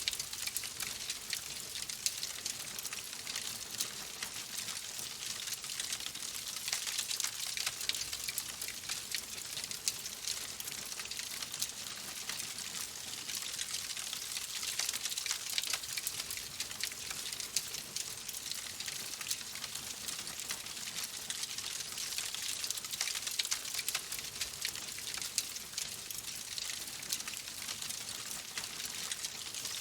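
Wood fire crackling in a fireplace: a steady, dense run of small crackles and light pops, with no big snaps standing out.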